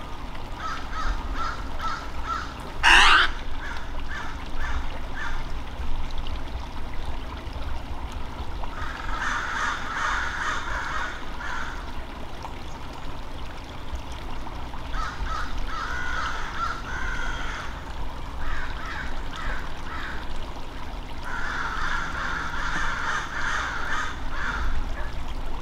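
Birds calling in bursts of short, harsh repeated notes, on and off, over a steady low rumble. A single loud, sharp sound stands out about three seconds in.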